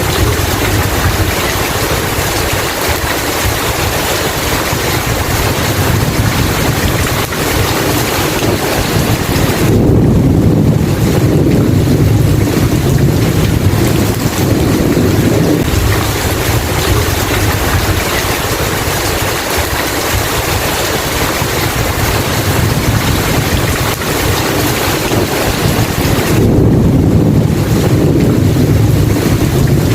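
Steady heavy rain, with deep rumbles of thunder swelling about ten seconds in and again near the end.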